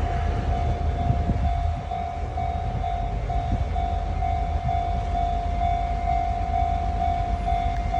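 Taiwan Railway train rumbling low and steadily as it moves at shunting speed. Over it, a single electronic warning tone pulses on and off about twice a second, like a level-crossing alarm.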